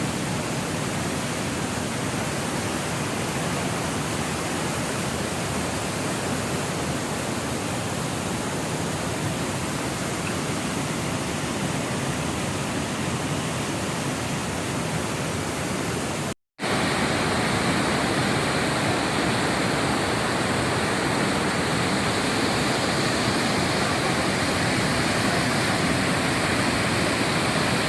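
Waterfall rushing: a steady, even roar of falling water. After a short break about 16 seconds in, it comes back louder and brighter.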